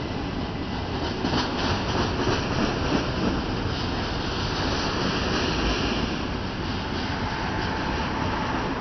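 Union Pacific double-stack container train rolling past: a steady rumble of steel wheels on rail, with a few sharp clacks between about one and three and a half seconds in.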